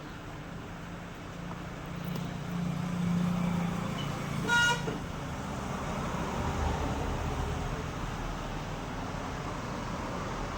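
A vehicle horn gives one short toot about four and a half seconds in, over a low rumble of passing road traffic.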